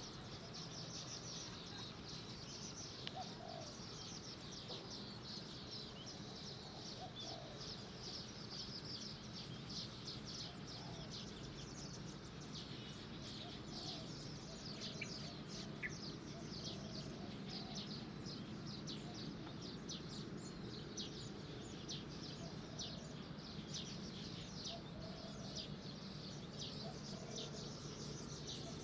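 Many small birds chirping continuously, with short high calls several a second, over a steady low background hum.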